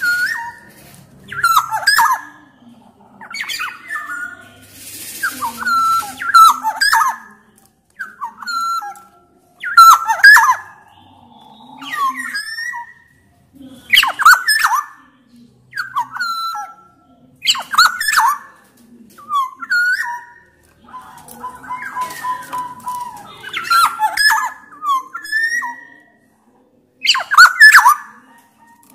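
Black-naped oriole calling loudly: short whistled phrases with quick pitch glides, repeated about every two seconds, mixed with harsh rasping calls, one long rasp about five seconds in.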